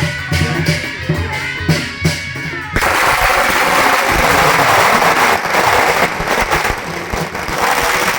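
Band music with drums, then about three seconds in a long string of firecrackers bursts into a dense, continuous crackle that drowns the music.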